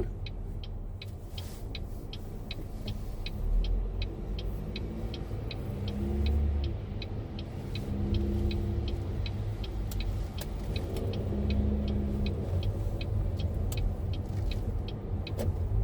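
Car turn signal ticking steadily, about two to three clicks a second, over the low rumble of the engine and tyres inside the car's cabin.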